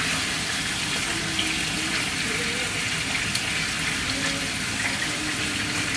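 Fish frying in oil in a pan: a steady sizzling hiss with the odd crackle.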